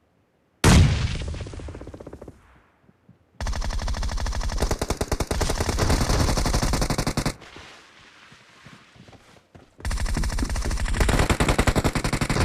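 Automatic gunfire in a shooter video game. A loud blast about half a second in dies away, then a long burst of rapid, evenly spaced shots lasts about four seconds. After a short lull a second burst starts near the end.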